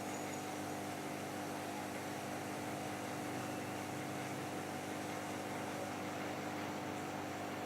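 Aquarium pump humming steadily over a constant hiss, with no change across the stretch.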